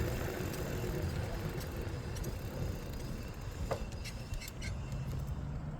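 Steady low rumble of road traffic, with a few light clicks.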